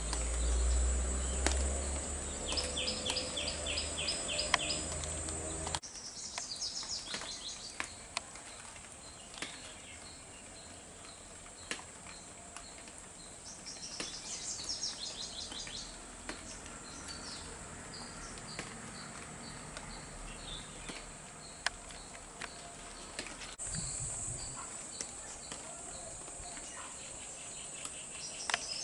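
Small birds chirping in quick repeated series over a steady high insect drone, with scattered sharp clicks of water dripping. A low rumble fills the first six seconds or so.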